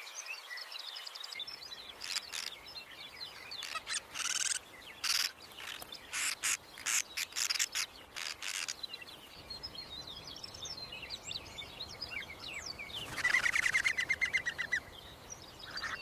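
Small birds chirping and calling: scattered high chirps, a run of short, sharp calls in the middle, and a fast trill near the end.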